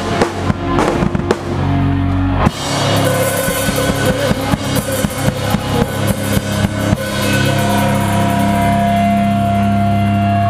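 Live pop punk band heard from the drum kit: a fast drum beat with bass drum and cymbals under guitars, then from about seven seconds in the beat stops and a held, ringing chord carries on.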